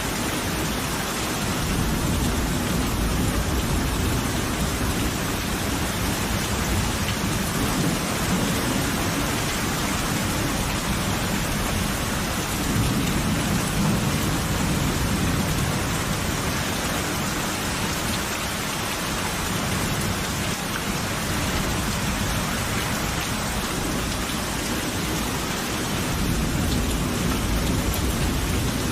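Steady heavy rain falling, with low rolling thunder swelling and fading several times underneath.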